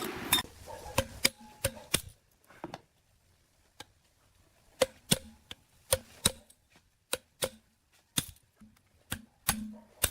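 Irregular sharp knocks and clicks, like metal tools and parts being tapped and set down, some with a brief ring. They come singly and in quick clusters with short quiet gaps between.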